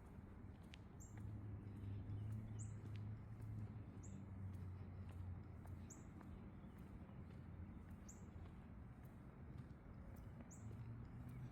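A bird repeating a single short, very high chirp every couple of seconds, over a faint low hum.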